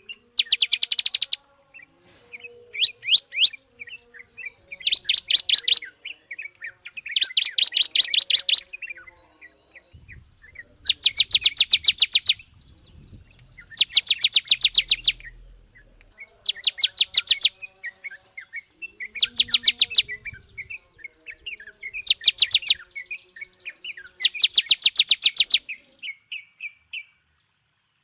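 A bird singing in loud bursts of very rapid trilled notes, each about a second long and repeated every two to three seconds, with softer chirps between the bursts.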